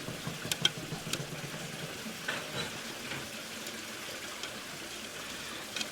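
A few light clicks and taps of small metal parts over a faint steady background hiss, as the safety valve is fitted and screwed back into the boiler of a Mamod model steam traction engine.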